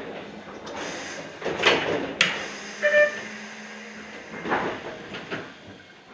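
Iyotetsu 3000 series electric train running on the line, with rail clatter, several sharp knocks and a short beep about three seconds in.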